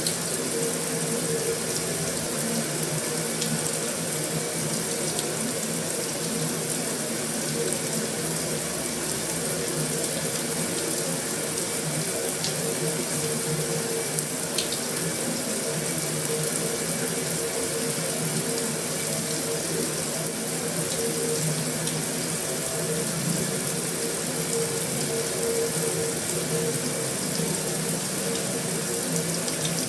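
Heavy rain drumming steadily on a metal roof, an even wash of noise with an occasional faint tick of a single drop.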